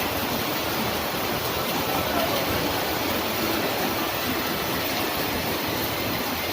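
Steady rushing noise of floodwater and passing traffic on a waterlogged street, with no break or change.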